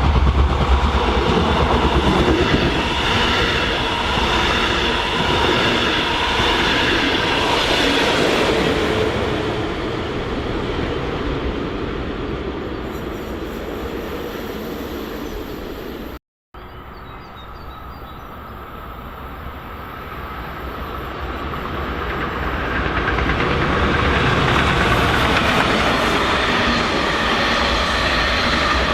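A train passing on the line, loud at first and then fading away. After an abrupt cut about midway, another train approaches, growing louder over a few seconds.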